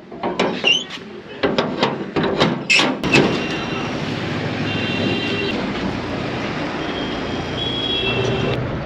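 A few seconds of short knocks and voices, then the steady running noise of a vehicle under way, with a few brief high-pitched tones over it.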